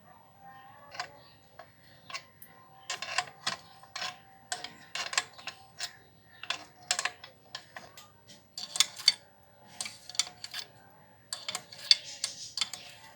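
Irregular series of sharp clicks and taps, some briefly ringing, as from hand tools and metal parts being handled, coming in clusters.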